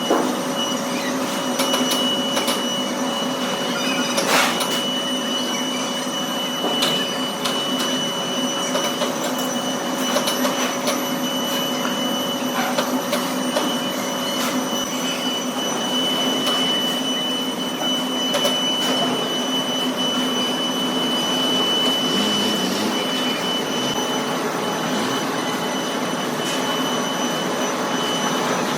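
Heavy metalworking machinery running steadily in a workshop, with a continuous whine and hum and scattered metallic clicks and knocks.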